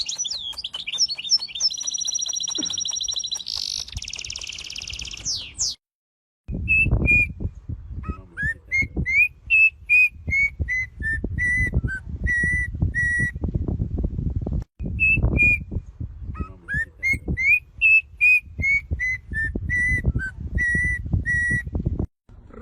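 A bird singing: high, fast warbling trills at first, then twice over a phrase of clear whistled notes that climb and then step down, over low rumbling and thumping noise.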